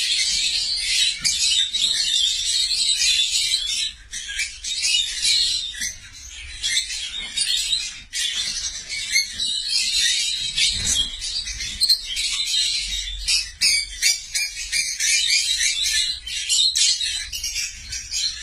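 Many lovebirds chattering at once, a dense continuous stream of shrill chirps and squeaks with brief lulls.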